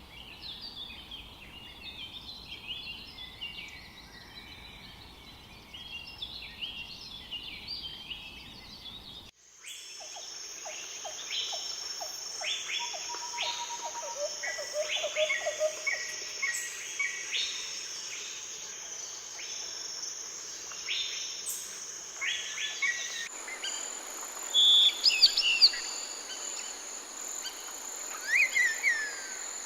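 Jungle ambience of birds calling. It starts with dense, overlapping chattering, then cuts abruptly to a steady high insect drone under assorted bird chirps and a rapid series of low notes. About two thirds of the way in there is another cut, to a steady insect drone with whistling, gliding bird calls, a few of them loud.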